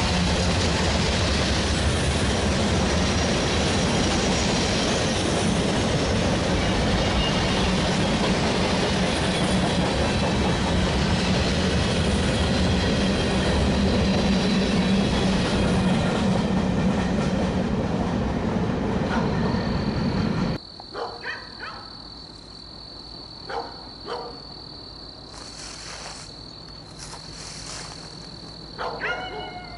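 Freight train of boxcars and tank cars rolling past on the rails, a loud steady rumble and clatter of wheels for about twenty seconds. It then cuts off suddenly to a much quieter scene with a steady high-pitched note and a dog barking a few times.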